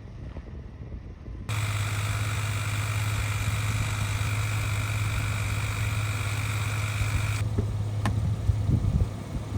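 Small Honda 2.3 hp four-stroke outboard motor running at a steady speed, cutting in abruptly about a second and a half in. A single click sounds near the end.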